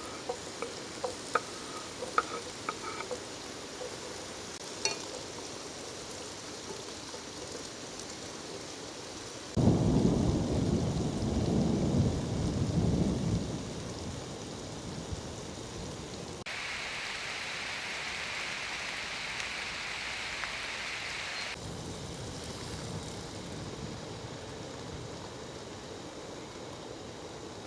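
Steady rain with a loud, low thunder rumble that starts suddenly about ten seconds in and fades over a few seconds. A few light clinks sound in the first seconds, and later a higher hiss cuts in and out abruptly.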